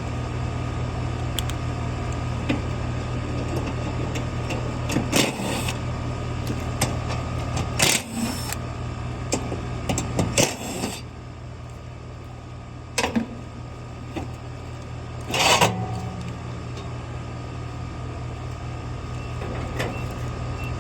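Steady low hum of running machinery with a faint high whine. Over it come several sharp clicks and rattles of hands and tools working at an air-conditioner condenser's run capacitor, about five in all, the loudest near the middle.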